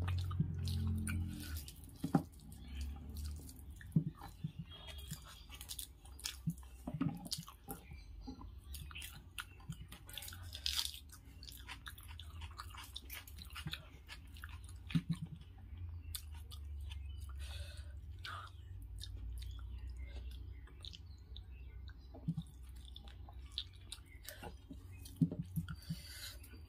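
Close-up chewing and eating sounds of a person eating rice and fried fish by hand: irregular wet mouth smacks and small clicks, with soft sounds of fingers mixing rice on a steel plate.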